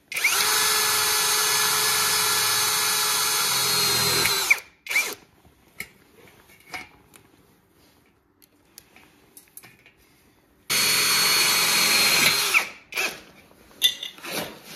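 Electric drill running in two steady runs, one of about four and a half seconds at the start and a shorter one about eleven seconds in, with small handling clicks and knocks between.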